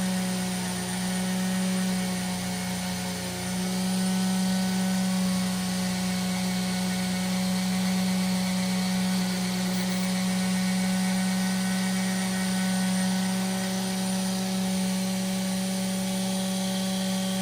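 Small high-speed rotary tool running steadily with an even, high motor hum, working stains off the back of a pocketknife's steel blade.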